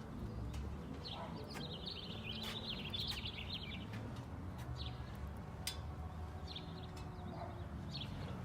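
A small bird sings a rapid chattering trill for about three seconds, followed by a few short chirps, over a low steady rumble of background noise. A few sharp clicks come in between.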